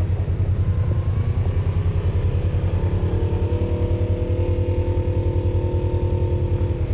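Polaris RZR side-by-side UTV engine running steadily with an even, rapid low pulse, holding a constant speed with no revving.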